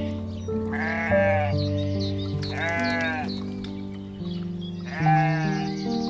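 A sheep bleats three times, each call under a second long, over steady background music.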